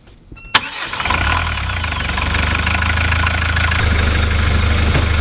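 Yacht's inboard diesel engine being started after its fuel system was bled of air: a short beep and a click about half a second in, then the engine catches about a second in and runs steadily.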